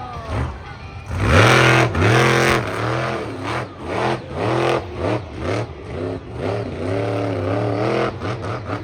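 Monster truck engine revving hard, its pitch rising and falling again and again, with the loudest surge about a second in.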